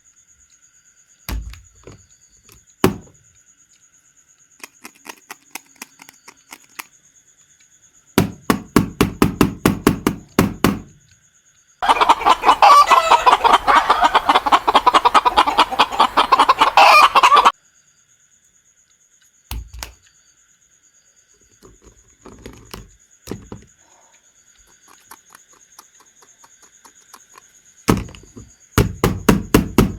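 Chickens clucking in bursts of rapid pulses, with a longer, louder run of cackling in the middle.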